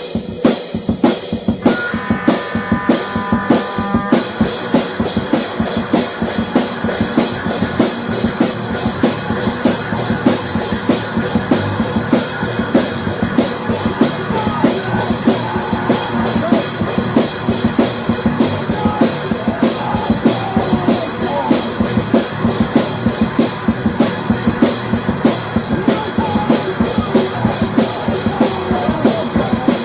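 Rock music with a drum kit playing a fast, steady beat, bass drum and snare up front. A brief held chord sounds about two seconds in.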